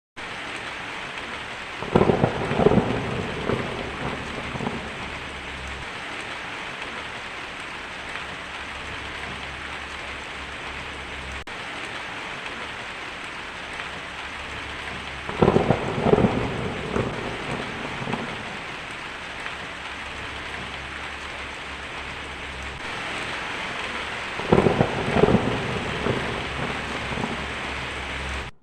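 Heavy rain drumming steadily on a tin roof, with three rolls of thunder: about two seconds in, about halfway through, and near the end.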